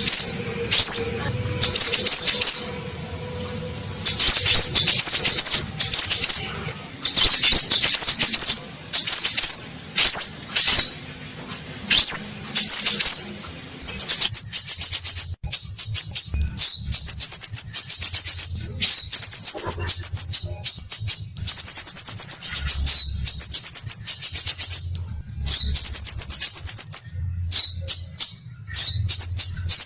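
Scarlet minivet singing hard: rapid, high-pitched chattering trills and quick sweeping whistles. The song comes in bursts with short pauses for the first half, then runs almost without a break.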